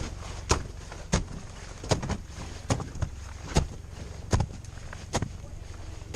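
Footsteps crunching on glacier ice at an even walking pace, about one step every three-quarters of a second.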